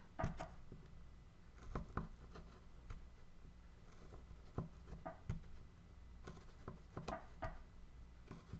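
Faint, irregular clicks and taps of a small hand tool and a wooden carving being handled and worked, over a low steady room hum.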